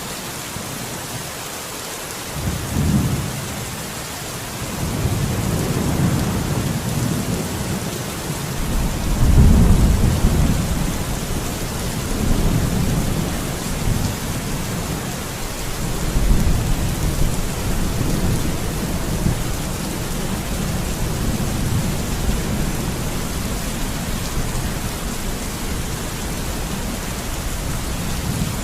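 Steady rain hissing, with rolls of thunder rumbling low under it. The rumbling starts a couple of seconds in, swells to its loudest about ten seconds in, rises again a few seconds later, then settles into a lower, continuing rumble.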